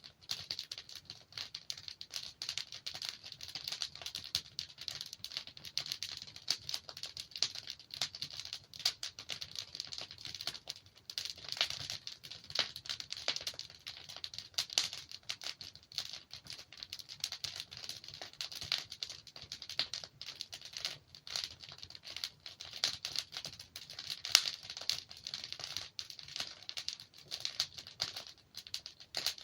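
Wood fire burning in a fireplace, with dense, irregular crackling and small pops from the logs over a low rumble.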